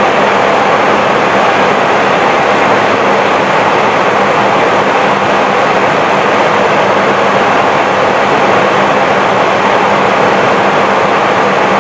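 Steady rushing noise inside an Airbus A320 flight deck in flight, airflow and cabin air systems, with a faint steady hum underneath.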